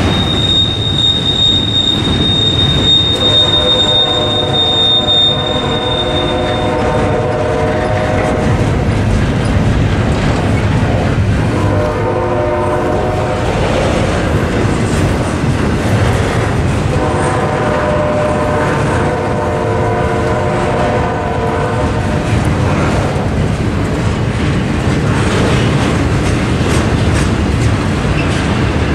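Double-stack container cars of a freight train rolling past, with a steady heavy rumble and clatter of steel wheels on rail. A thin, high, steady wheel squeal runs for the first six seconds or so. Chord-like tones come and go three times over it.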